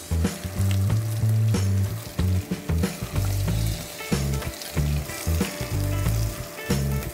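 Chopped onions sizzling in hot oil in an enamelled cast-iron pot, with scattered sharp ticks as a silicone spatula stirs them. Background music with a strong bass line runs under it.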